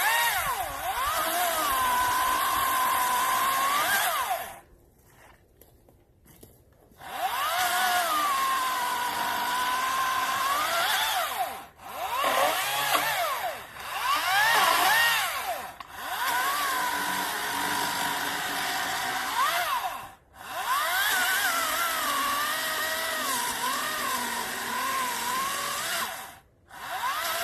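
Greenworks 40-volt DigiPro 14-inch cordless electric chainsaw cutting wood. Its motor whines and rises and dips in pitch as the cut loads it. It stops for about two seconds some five seconds in, and cuts out briefly three more times when the trigger is let go.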